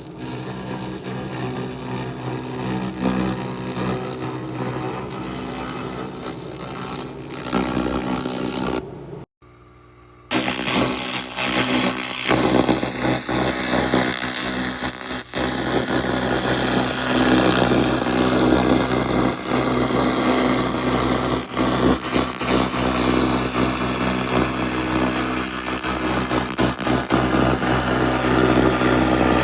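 Handheld fiber-laser rust remover (SFX 2000) running against metal, a steady buzzing drone with a hiss over it. It drops out for about a second roughly nine seconds in, then carries on.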